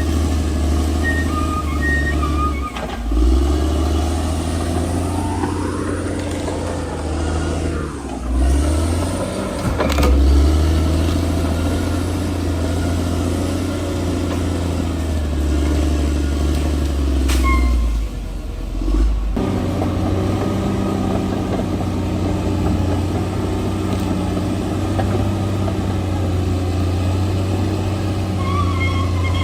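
Bulldozer's diesel engine running at work, its pitch rising and falling with the throttle, with two sharp knocks in the middle.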